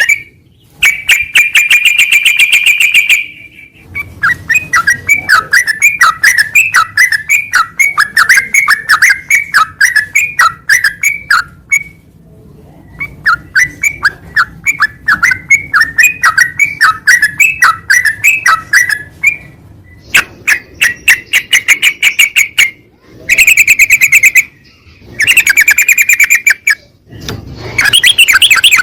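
Yellow-vented bulbul (trucukan) song: loud bursts of rapid rattling trills alternating with long runs of short rising chirps, about three a second, broken by brief pauses.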